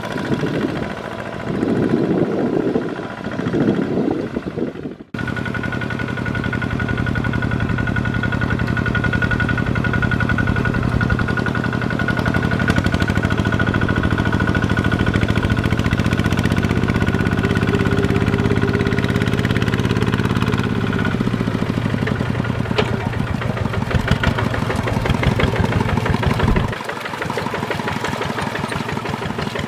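Kubota ZT140 walk-behind tractor's single-cylinder diesel engine running steadily while plowing. The sound breaks off abruptly about five seconds in and picks up again at once. Near the end the deep part of the engine note drops away.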